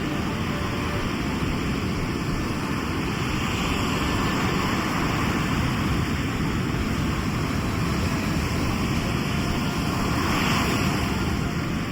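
Sea waves washing in, a steady rush of surf with a heavy low rumble, swelling louder about four seconds in and again near the end.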